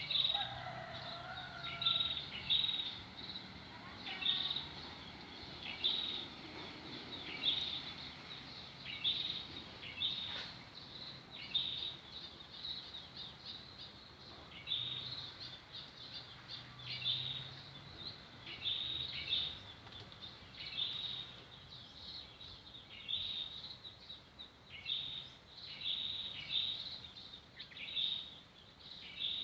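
Bird chirping in short high calls repeated about every one to two seconds, over a faint steady outdoor background hiss.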